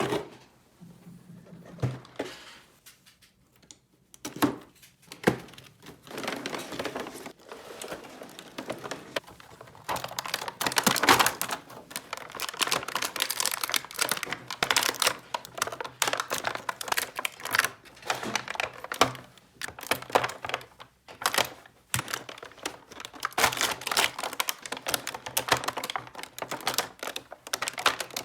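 Small plastic toy pieces being handled: a few separate taps at first, then dense rapid clicking and rattling from about ten seconds in, with some light crinkling.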